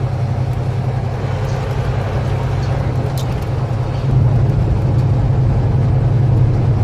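Semi truck engine running under load as the truck climbs a bridge, a steady low hum over road noise. It gets louder about four seconds in.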